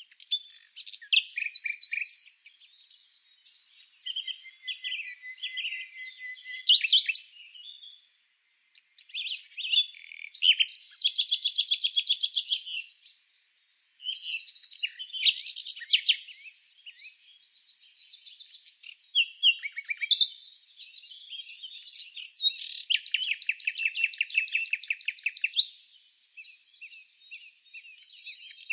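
Songbirds chirping and singing over one another in a busy chorus of varied calls. Two long, fast trills stand out, one about a third of the way in and another near the end, and the singing pauses briefly about eight seconds in.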